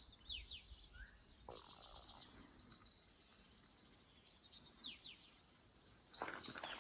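Faint songbird singing: phrases of high, buzzy trills and quick downward-slurred notes, three times over. Near the end a run of scuffs and knocks starts up.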